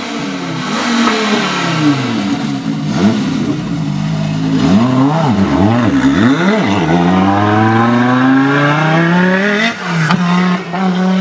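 Audi Quattro S1 E2 rally car's turbocharged five-cylinder engine revving hard: several quick rises and falls of pitch, then a long climbing rev that drops sharply about ten seconds in and holds steady.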